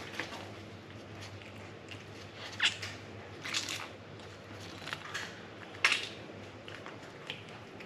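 A cat chewing on a bird it has caught: irregular crisp crunches, a few of them louder, with short pauses between.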